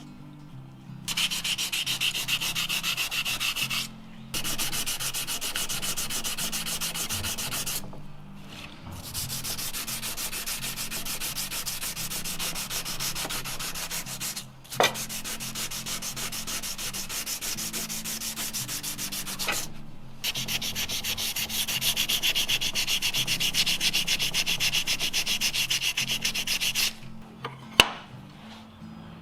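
Wood being sanded in five long passes of a few seconds each, separated by short breaks.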